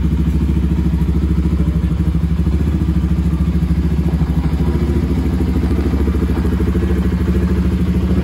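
Bajaj Pulsar RS200's single-cylinder engine running steadily at idle, with an even, rapid low pulsing.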